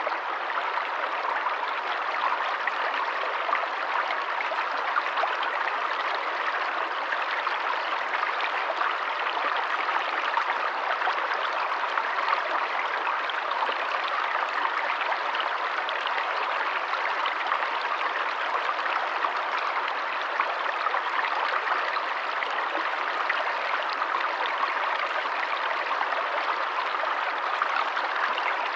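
Steady, unbroken rush of flowing water, like a stream running over rocks.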